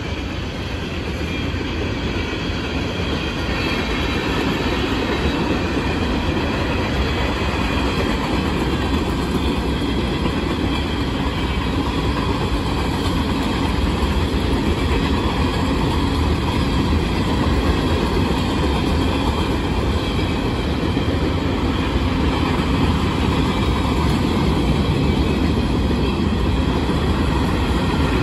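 Freight train's open-top hopper and gondola cars rolling steadily past, steel wheels running on the rails. The sound gets a little louder over the first few seconds, then holds steady.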